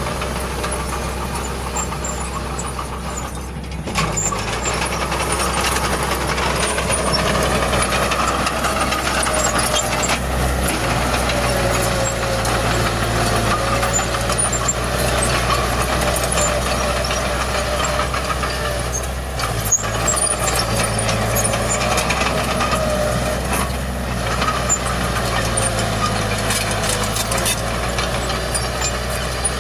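Heavy diesel engine of earthmoving machinery running under working load, its pitch rising and falling, with a sharp knock about twenty seconds in.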